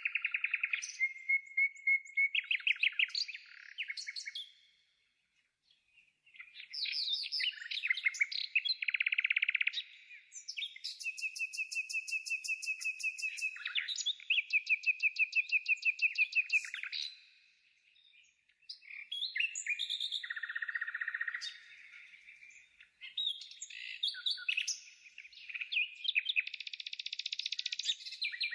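Bird song: long, varied phrases of rapid trills and quickly repeated high chirps, broken by short pauses about five and eighteen seconds in.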